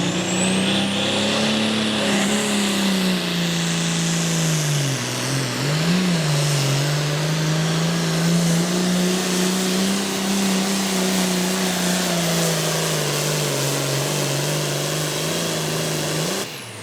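Pro Farm class pulling tractor's turbocharged diesel engine running hard under load through a pull, its pitch mostly steady with a brief dip and recovery about five seconds in, then cutting off suddenly near the end.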